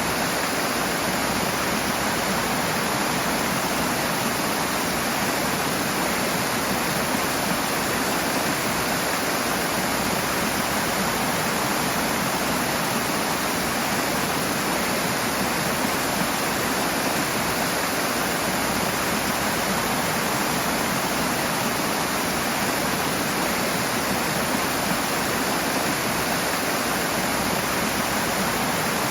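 Rushing water: a steady, even rush of fast-flowing stream or small waterfall, with no breaks or changes.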